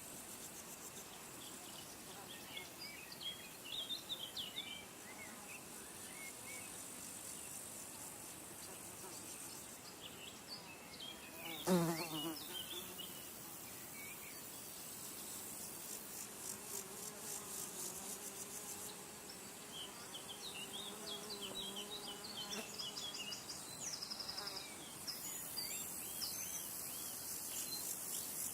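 Natural ambience of buzzing insects, with a flying insect droning past for several seconds in the second half and a high-pitched insect trill coming and going. Small bird chirps are scattered throughout. About twelve seconds in, the loudest sound is a brief sweep that falls sharply in pitch.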